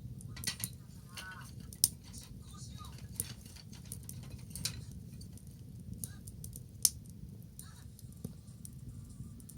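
Wood bonfire crackling: irregular sharp pops and snaps over a steady low rumble, the loudest pops about two seconds in and about seven seconds in.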